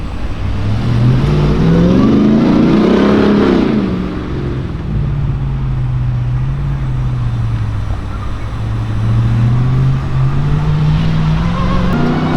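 Ram 1500 TRX pickup's supercharged 6.2-litre Hemi V8 accelerating hard, its pitch rising for a couple of seconds before easing back to a steady run. It climbs again near the end.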